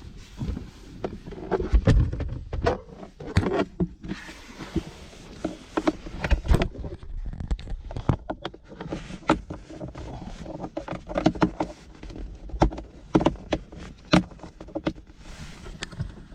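Irregular clicks, knocks and rustling from the plastic cabin air filter housing and glovebox of a 2009 Kia Forte being handled by hand during a filter change.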